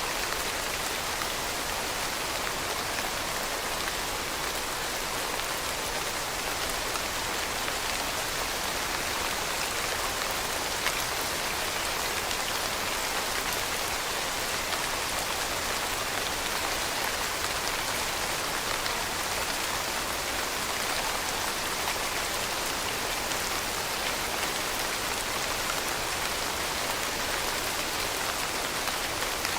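Steady rain falling, an even hiss with a fine patter of drops on a surface.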